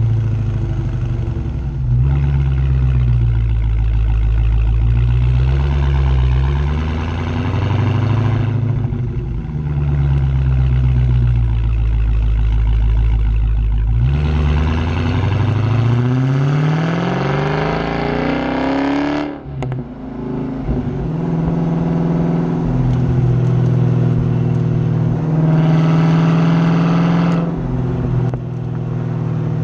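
Dodge Hellcat's supercharged 6.2-litre Hemi V8 exhaust under way. The note wavers up and down with the throttle, then climbs in pitch through a long pull of about five seconds near the middle. A gear change cuts the pull off suddenly, and the engine settles into a steady drone.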